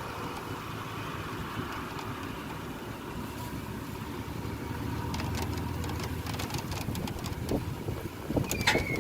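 An engine idling with a steady low rumble, with a few sharp clicks and a brief high tone near the end.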